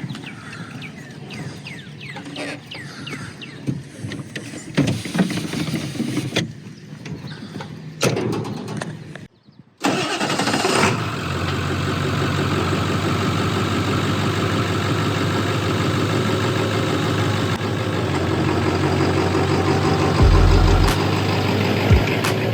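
Scattered knocks and handling noises, then, after a short break, a vehicle's engine running steadily with road noise, as of a truck under way. A deep low thud sounds near the end.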